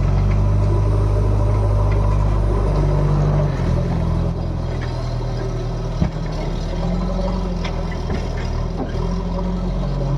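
JCB 3DX backhoe loader's diesel engine working under load, revved higher for the first three and a half seconds, then dropping back and rising and falling as the machine works. A single sharp knock about six seconds in.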